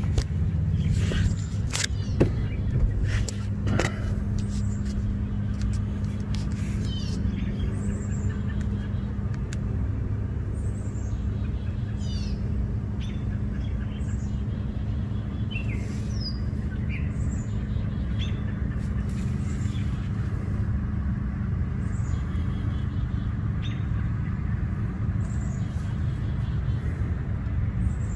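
A vehicle engine idling steadily, with birds chirping over it. A few sharp clicks or knocks come in the first few seconds.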